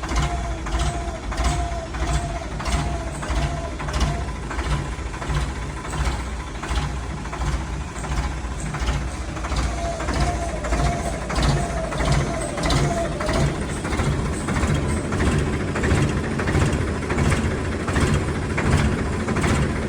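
Tractor diesel engine running steadily, with a regular knocking clatter about twice a second.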